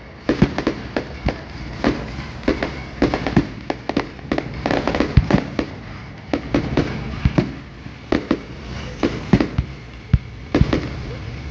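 Fireworks display: a rapid, irregular run of sharp bangs and crackles, several a second at times.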